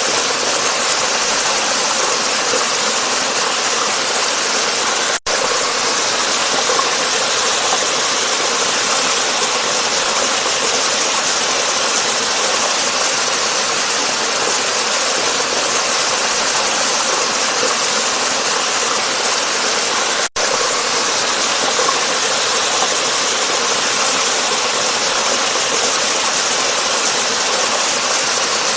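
Waterfall: a loud, steady rush of falling water, broken by two momentary cut-outs, about five seconds in and about twenty seconds in.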